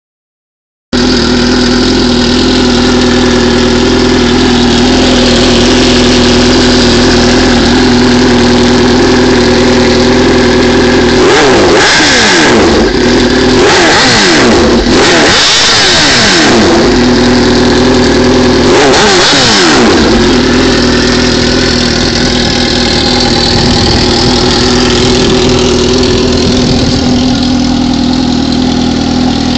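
A 2004 Suzuki GSX-R600's inline-four running loud with its muffler removed: a steady idle, then four quick rev blips in the middle that rise and fall in pitch, settling back to idle.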